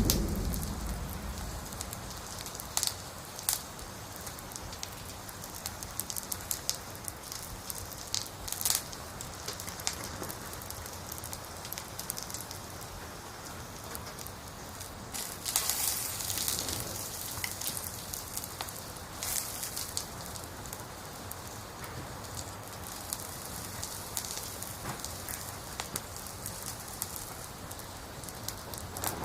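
Wood burning in a campfire: a steady hiss with irregular sharp crackles and pops from the firewood, a few louder pops standing out.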